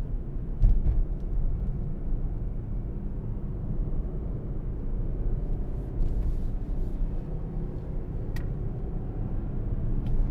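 Mercedes-AMG GLC63 S's 4.0-litre twin-turbo V8 running under way in Sport Plus mode, heard from inside the cabin as a steady low rumble mixed with road noise.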